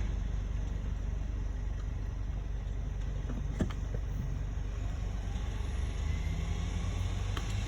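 A motor vehicle's engine running steadily with a low rumble, with a single sharp click about three and a half seconds in.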